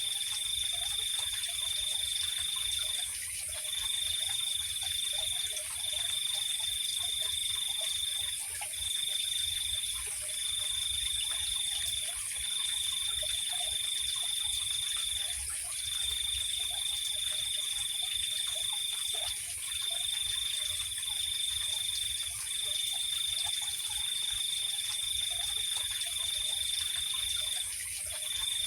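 Night chorus of insects: a high, steady cricket-like trill that runs in long stretches broken by brief gaps, over a continuous higher-pitched insect drone, with faint frog calls scattered beneath.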